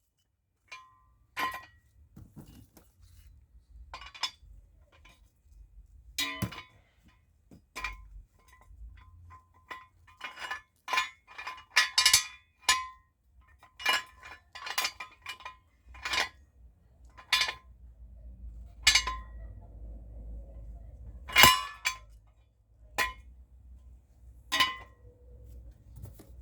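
Steel 3-ton jack stand being worked by hand: sharp metal clinks and clanks at irregular intervals, each with a short ring, as its ratchet column and locking pawl knock together while it is raised, locked and dropped.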